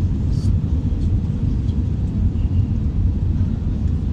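Steady low rumble of an Airbus A321 airliner.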